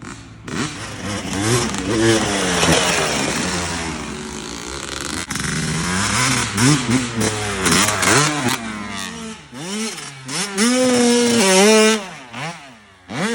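Two-stroke dirt bike engines revving up and falling off again and again, with a high, steady rev held for about a second near the end before it drops away.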